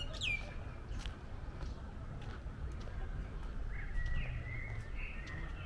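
Small bird chirping: one quick falling chirp just after the start, then a few short chirps in the second half, over a low steady outdoor rumble.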